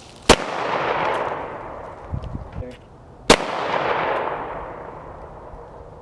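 Two loud pistol shots about three seconds apart, each a sharp crack followed by a long echo that dies away over a couple of seconds.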